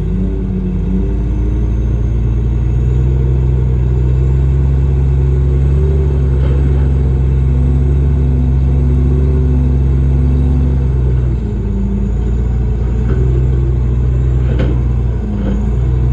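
Heavy earthmoving machine's diesel engine running hard. It steps up in pitch and level about a second in, holds steady, then eases off about two-thirds of the way through. A few short metallic clanks come through near the end.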